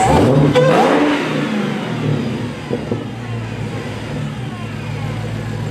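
Dodge Hellcat's supercharged 6.2-litre V8 idling; it is blipped once right at the start, the pitch rising and falling back within about a second and a half, then it settles to a steady idle.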